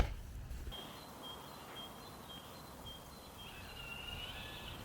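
A sharp click right at the start, then a small bird singing faintly over quiet outdoor background: a short high note repeated about twice a second, followed by a longer warbling phrase near the end.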